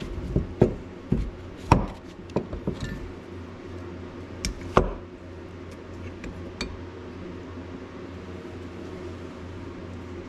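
A quick series of sharp knocks and clinks, the sound of hard bait-making gear such as molds and tools being handled and set down, in the first five seconds, with two lighter ones a little later. A steady low hum runs under them.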